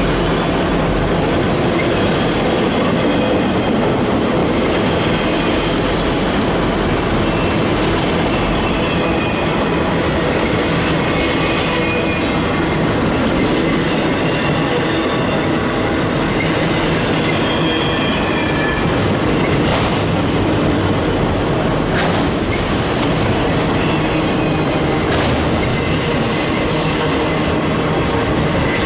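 Freight train cars rolling past with a steady, loud rumble of steel wheels on rail, and now and then short, faint high-pitched wheel squeals.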